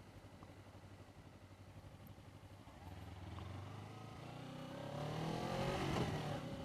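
Motorcycle engine running quietly at low revs, then from about three seconds in pulling harder and revving up, its pitch rising and the sound growing louder.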